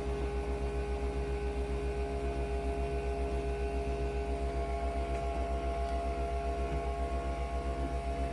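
Nespresso Vertuo Next coffee machine running: a steady hum with a fast, even pulsing underneath.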